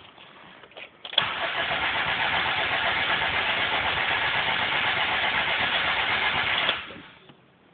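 Car engine cranking on the starter without catching: a click about a second in, then about five and a half seconds of even, rhythmic cranking that stops. The engine won't start after being reinstalled, which the owner suspects comes from sensors hooked up in the wrong places.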